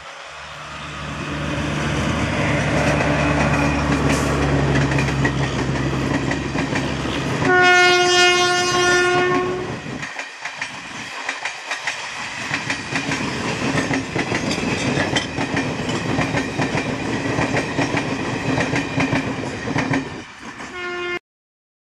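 Locomotive-hauled passenger train approaching with a low steady hum, then one long horn blast about eight seconds in. The coaches run past with a fast clickety-clack of wheels over rail joints, and a short horn toot comes just before the sound cuts off.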